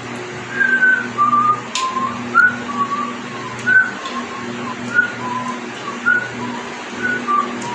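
A person whistling a tune in short notes, about two a second with small slides between pitches, over a low steady hum.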